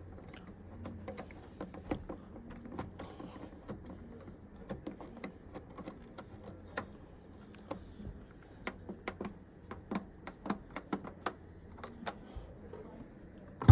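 A run of irregular light clicks and taps, sometimes several a second, over a faint low hum.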